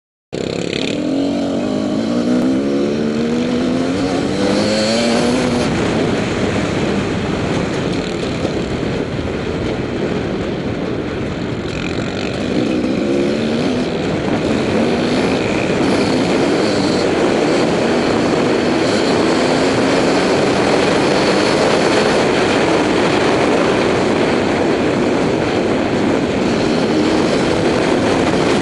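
TM300 two-stroke enduro motorcycle engine, heard from a helmet-mounted camera, revving up through the gears: its pitch climbs and falls back with each shift early on and again about halfway, then it runs on hard at speed under a steady rush of wind noise.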